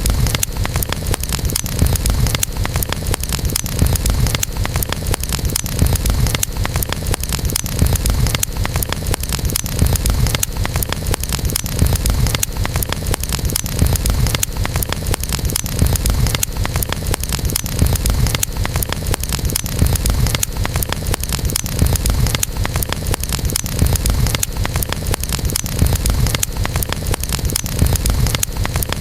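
Campfire burning: wood crackling and popping over a steady low rumble, with a louder surge of crackle about every two seconds.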